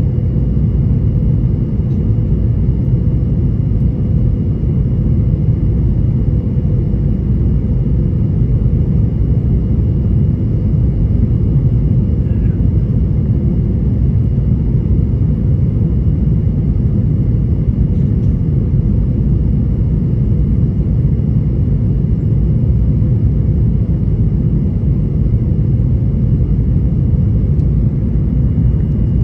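Steady cabin rumble of a Boeing 737-800 airliner in flight, from its engines and the airflow, with a faint steady hum over it and no changes or impacts.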